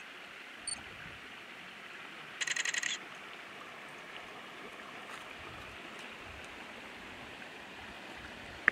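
Quiet bush ambience with a steady faint hiss. A bird gives a short high chirp under a second in, then, about two and a half seconds in, one loud fast buzzy call lasting about half a second. A single click comes near the end.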